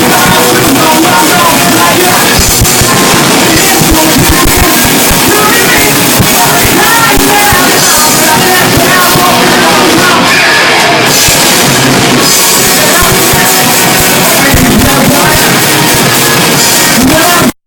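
Live rock band playing loudly, with drums, guitars and singing. The sound drops out for an instant at the very end.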